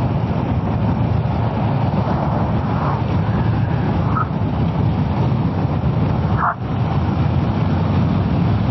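Kawasaki ER-6f motorcycle under way: a steady rush of wind and road noise over the engine, as heard from the rider. It drops briefly about six and a half seconds in.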